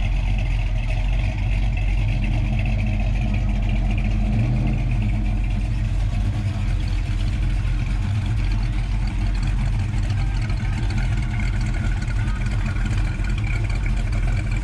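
A 1965 Plymouth Belvedere's engine idling with a steady, deep exhaust rumble.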